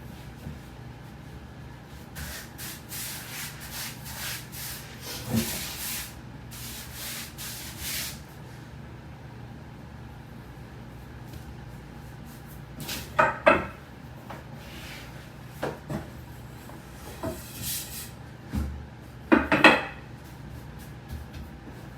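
Wooden rolling pins rubbing and rolling over soba dough on a wooden board, a run of soft strokes, with a few sharp wooden knocks later on as the pins are set down or handled.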